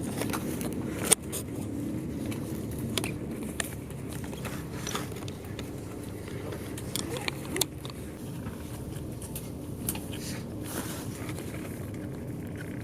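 Bus engine running, heard from inside the cabin as a steady low hum, with scattered clicks and rattles and a sharp knock about a second in.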